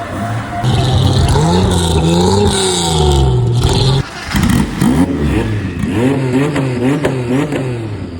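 A car engine being revved. The pitch swells up and falls back over a few seconds. After a sudden break about four seconds in, it comes in quick blips, roughly two a second.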